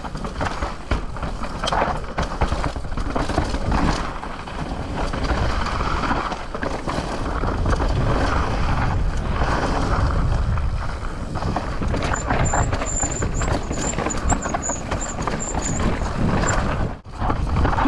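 Mountain bike riding fast down a trail: a constant rumble and rattle of the tyres over dirt and rocks, with frequent knocks from the bike. A high, wavering squeal, typical of disc brakes, comes and goes from about twelve to sixteen seconds in. The noise cuts out briefly near the end.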